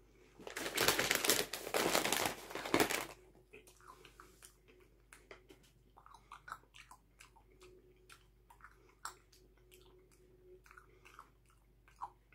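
Close-up chewing of caramel popcorn: a loud spell of crunching for the first few seconds, then quieter, scattered chewing clicks and mouth sounds.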